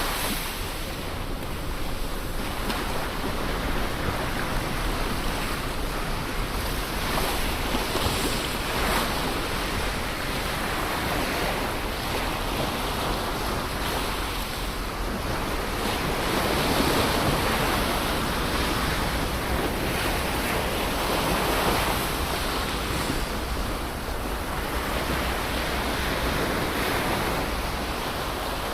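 Ocean waves breaking and washing on a shore, an even rushing noise that swells and fades every few seconds.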